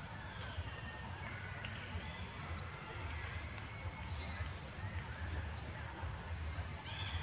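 Outdoor ambience: short, high rising bird chirps every second or two over a low steady rumble.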